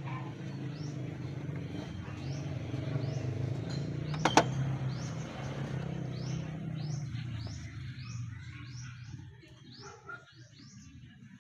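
Small birds chirping over and over in short rising calls, over a steady low hum that fades away after about nine seconds. A single sharp click about four seconds in.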